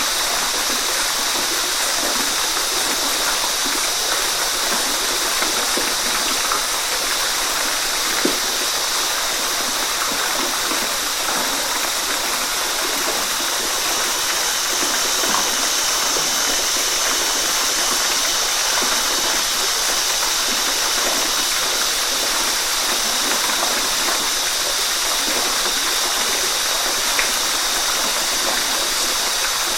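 Waterfall: a steady, even rush of falling water, more hiss and splash than deep rumble, with a few brief splashes standing out now and then.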